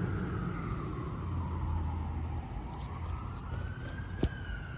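Emergency vehicle siren wailing, its pitch sliding slowly down and back up, over a steady low rumble. A single sharp click near the end.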